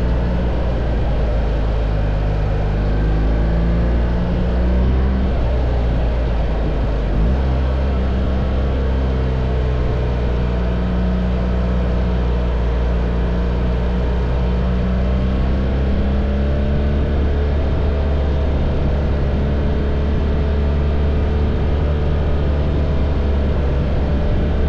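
BMW R1300 GS's boxer-twin engine running at a steady cruise while riding, its pitch holding with small shifts, under a steady rush of wind noise.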